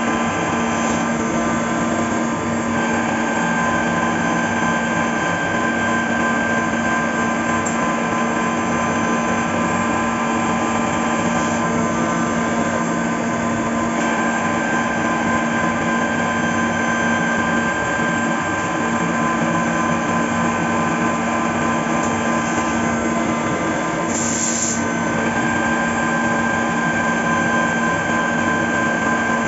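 Fagima Jazz M five-axis CNC machining centre running a milling cycle: a steady spindle whine over a noisy mechanical hum. A short, sharp hiss comes about 24 seconds in.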